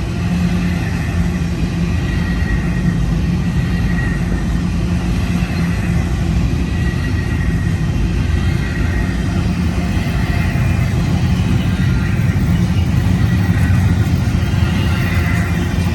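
Intermodal freight train's stack cars rolling past, a steady heavy rumble of steel wheels on the rails.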